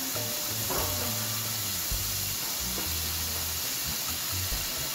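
Chicken legs frying in hot oil in a pot, a steady sizzle.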